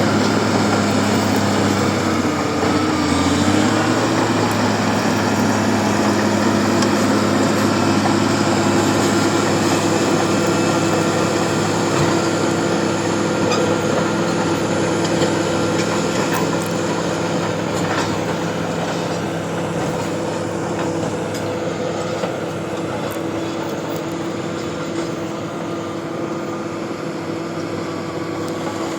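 Bulldozer's diesel engine running steadily under work, its pitch dipping briefly about three seconds in before recovering, with scattered clanks from the crawler tracks.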